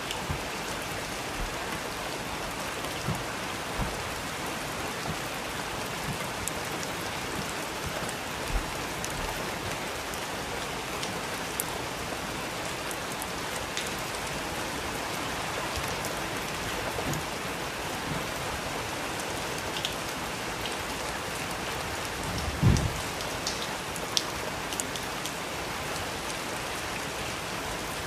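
Steady rain falling, an even hiss with scattered louder drops tapping, and a heavier low drop thud a little before the end.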